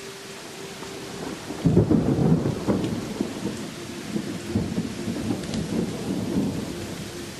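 A clap of thunder breaks in about a second and a half in and rolls on as a low, crackling rumble that slowly fades, over the steady hiss of rain.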